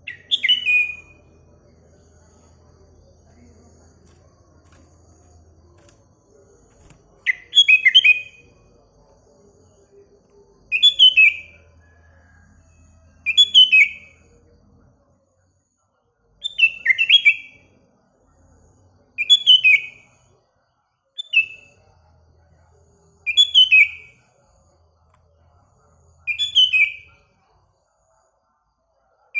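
Sooty-headed bulbul (kutilang) singing a short chirping phrase over and over. The first phrase is followed by a pause of several seconds, then the phrases come about every two to three seconds.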